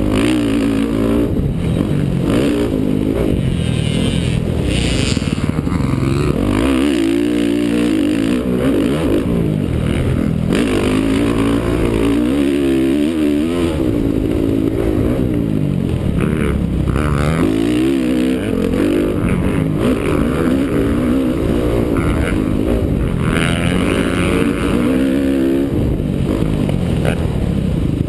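Honda CRF450R's single-cylinder four-stroke engine revving hard under load, its pitch rising and falling over and over as the throttle is opened and closed through corners and straights.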